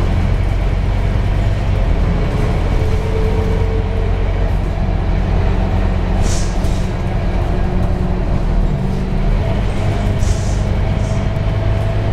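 Scania K230UB bus's five-cylinder diesel engine running steadily while under way, heard from on board. Two short hisses, about halfway through and again near the end.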